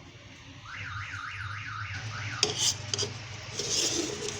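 A warbling electronic tone, like a car alarm or siren, sweeping up and down about three times a second for about a second and a half. After it come a few clicks and a short scrape of utensils.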